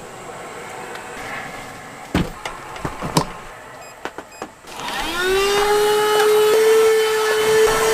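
A few knocks, then a small electric motor spins up about five seconds in with a quickly rising whine that settles into a steady hum, and stops abruptly near the end.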